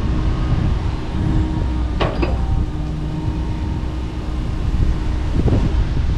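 Kobelco SK85 MSR excavator's diesel engine running steadily, with a sharp crack about two seconds in and another near the end.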